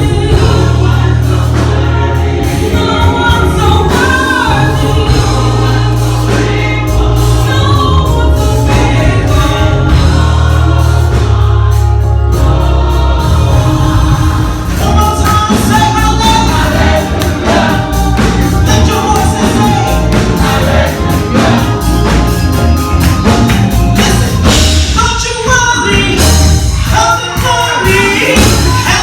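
Gospel music: a choir singing over a band with a strong bass line and a steady beat.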